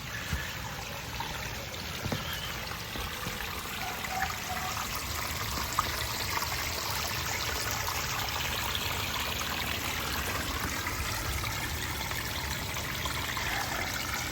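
Water splashing and trickling steadily down a small multi-tiered pondless garden waterfall, over rocks and a log into a gravel-covered reservoir. A few light knocks stand out, about 2 s and 6 s in.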